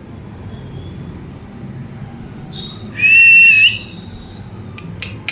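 Pet parrot giving one loud, clear whistle that holds nearly one pitch for under a second and lifts slightly at the end, about three seconds in. A few sharp clicks follow near the end.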